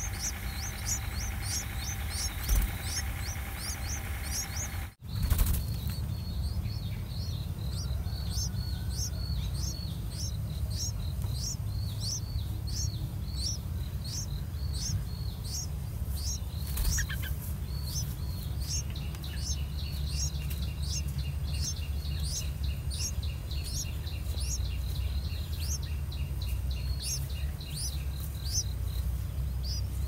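High, thin bird chirps repeating about two to three times a second, over a low steady rumble. The sound drops out briefly about five seconds in.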